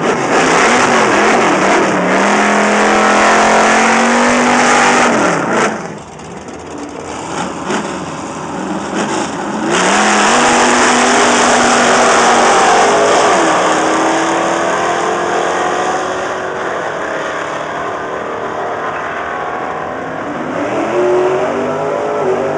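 Chrysler Cordoba's V8 making a drag-strip pass: revving hard, its pitch climbing and dropping with the throttle and gear changes. The level falls sharply about six seconds in and comes back about ten seconds in.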